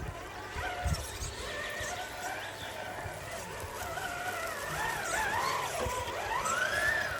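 1/10-scale RC rock crawler's electric motor and geartrain whining, the pitch rising and falling as the throttle is worked over the rocks, with a few low knocks from the chassis on the terrain.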